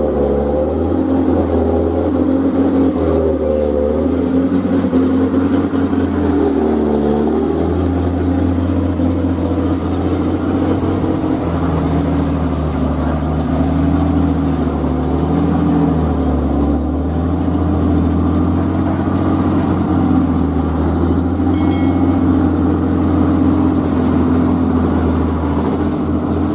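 Old truck engine running under steady load, its pitch stepping up and down every few seconds.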